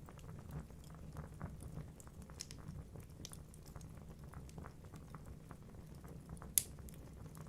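Wood fire in a fireplace crackling: frequent small irregular pops over a low steady rumble, with one sharper, louder pop near the end.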